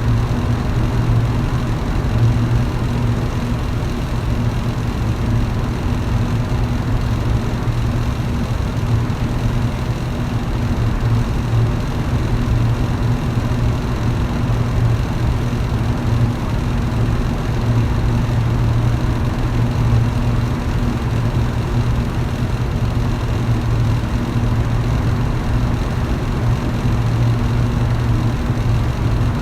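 Electric fan running steadily: a constant low motor hum under an even rush of air from the blades.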